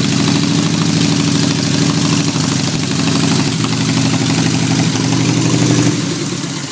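1929 BMW R62's side-valve flat-twin engine idling steadily. Near the end the sound dies away as the engine stops.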